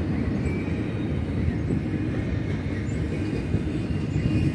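BNSF double-stack container train's well cars rolling past: a steady low rumble of steel wheels on the rails, with faint short high squeaks now and then.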